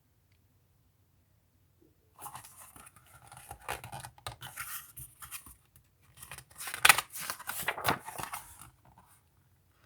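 Paper rustling and crackling as the pages of a picture book are handled and turned, starting about two seconds in, with a sharp crackle about seven seconds in.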